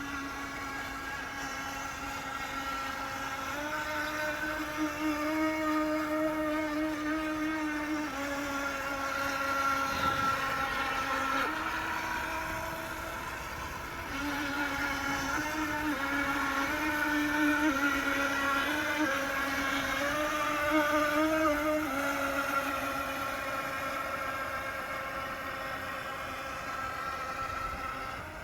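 Twin electric motors of a toy RC speed boat whining as it runs on water. The pitch and loudness step up and down several times as the throttle changes, louder around 4–8 s and 14–22 s in.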